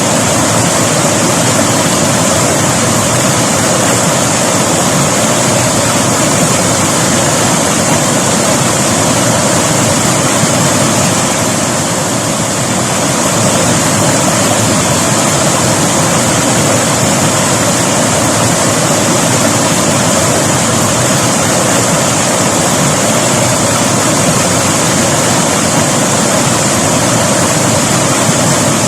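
River water rushing over rocks, a loud, steady wash of flowing water with a slight dip about twelve seconds in.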